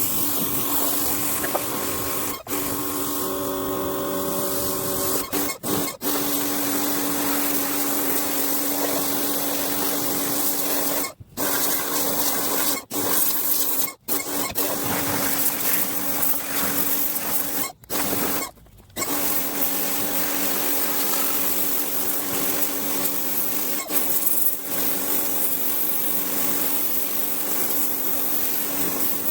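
Small Ferrex electric pressure washer running and spraying water: a steady motor hum under the hiss of the spray. It cuts out briefly several times in the middle, each time starting up again at once.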